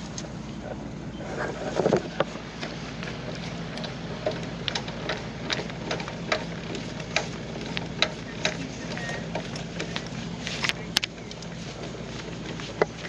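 A truck engine idling with a steady low hum, with irregular sharp clicks and knocks over it and a louder clatter about two seconds in.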